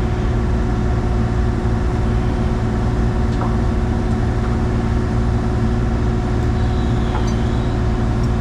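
Diesel engine of an excavator running steadily, with a constant drone, as the machine lifts the old oil tank.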